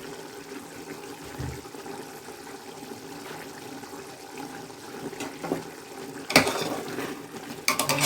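Chicken pieces simmering in their own juices in an opened pot, a steady bubbling hiss. A sharp knock comes about six seconds in, and a few clinks follow near the end.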